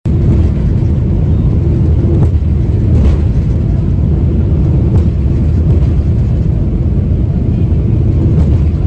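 Steady low rumble of a jet airliner's engines, with a few faint sharp pops scattered through it.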